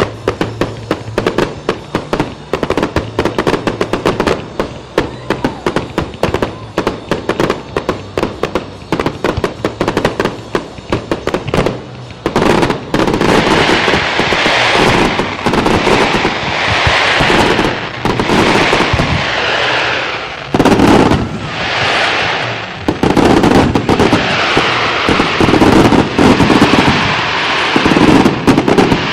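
Fireworks display going off: rapid cracking bursts, then about halfway through a louder, denser barrage with the bangs running together.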